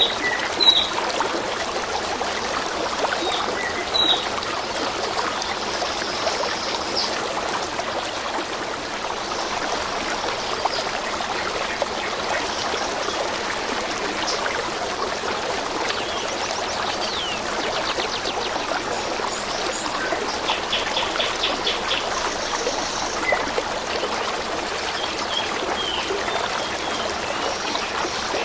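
Small stream trickling steadily, with birds chirping now and then above it and a quick trill about two-thirds of the way through.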